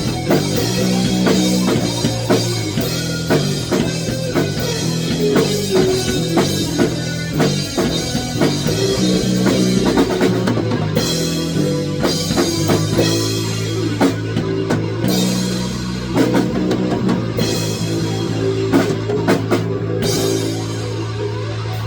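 Rock music with a full drum kit and guitar playing a steady beat.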